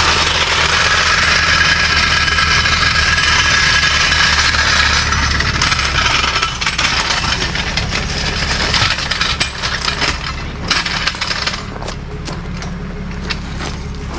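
A vehicle engine running steadily at idle, with a broad hiss over it for the first six seconds or so and then scattered sharp clicks and clanks through the second half.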